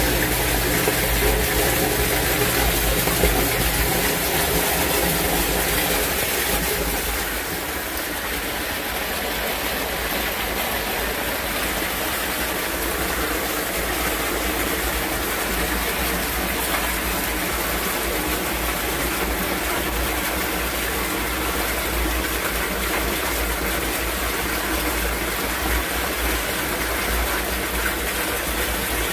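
Heavy rain and water rushing and gushing through a yard drainage system. A low hum underneath stops about four seconds in, and the water noise shifts a little a few seconds later.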